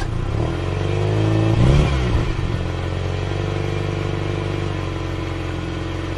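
Engine sound: a car engine revs up and back down about a second and a half in, then runs at a steady idle.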